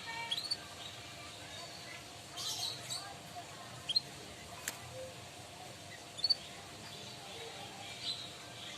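Canary giving short, high chirps and brief song notes at irregular intervals, with a single sharp click about halfway through.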